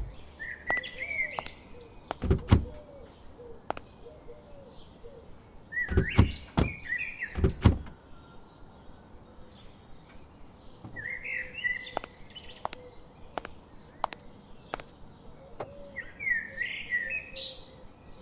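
A bird sings the same short chirping phrase four times, about every five seconds. Several dull thumps and clicks fall in between, the loudest about two and a half seconds in and again between six and eight seconds in.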